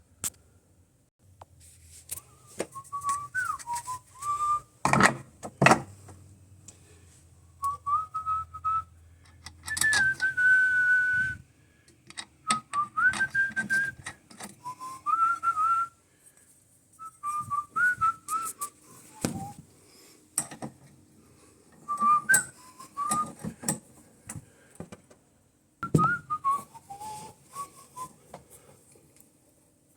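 A person whistling a tune in short phrases, with a few sharp clicks and knocks of handling in between.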